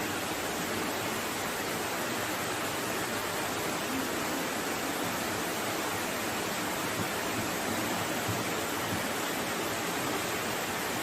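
Floodwater rushing in a steady, even roar of water noise.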